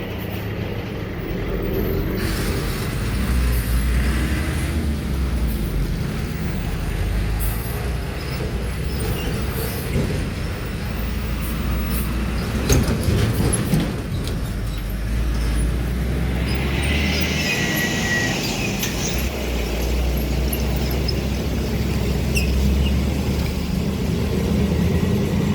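Heavy trucks' diesel engines running with a steady low rumble as they pass, and a short hiss of air brakes about two-thirds of the way in.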